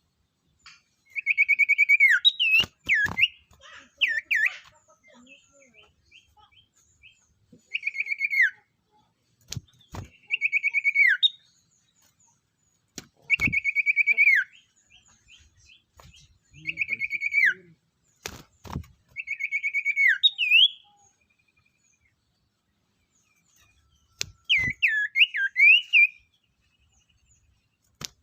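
A songbird singing, the 'sirtu' of Indonesian bird-keeping, from a training recording. About eight short, high phrases come a few seconds apart; each is a rapid trill that drops in pitch at its end, and sharp clicks fall between some phrases.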